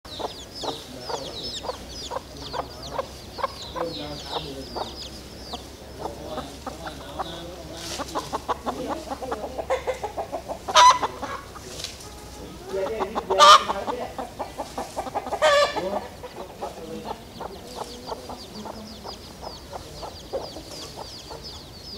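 Birds calling: a steady run of short, quickly repeated notes, with many quick high falling chirps in the first few seconds and three loud, ringing calls in the middle.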